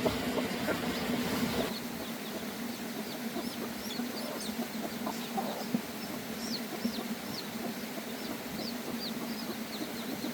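Birds chirping in short, high notes that fall in pitch, several a second, starting about two seconds in. A steady low hum runs underneath.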